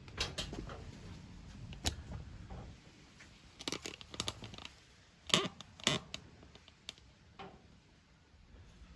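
Scattered sharp clicks and knocks of handling, a few seconds apart and loudest twice about five to six seconds in, with no engine running.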